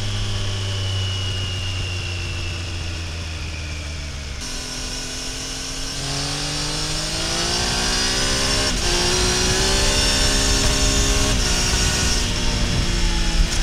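Triumph Tiger Sport 800's three-cylinder engine and exhaust under way: for about four seconds the pitch sinks slowly as it slows, then it accelerates with a rising pitch, broken twice by quick upshifts (about nine and eleven and a half seconds in) where the pitch steps down without a pause, as with a quickshifter.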